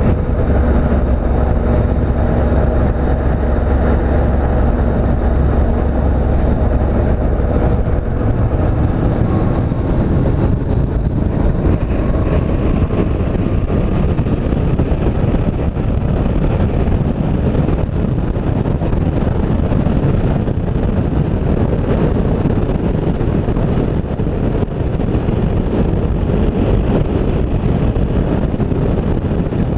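Motorcycle running at road speed. The steady engine note is clear for the first several seconds and is then mostly buried under a constant rush of wind over the microphone.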